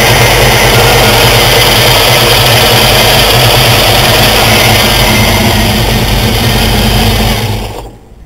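Supercharged 350 Chevy small-block V8 with a 4-71 Roots blower, running steadily at idle, loud and close. The sound fades out near the end.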